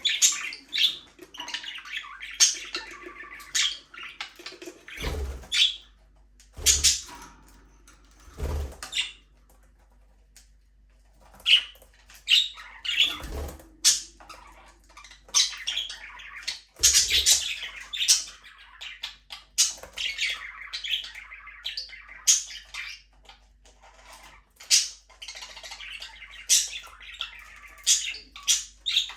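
Budgerigars chirping and warbling in a stream of short, high calls, with a lull about nine seconds in. A few sharp knocks sound among the calls, five of them in all, near 5, 7, 8.5, 13 and 17 seconds.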